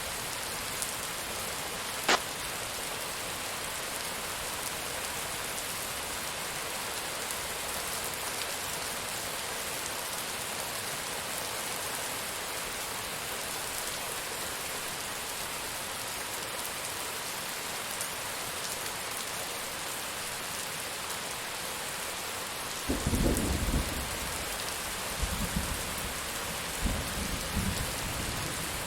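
Steady rain falling, with one sharp click about two seconds in. Thunder rolls in several low rumbling pulses near the end.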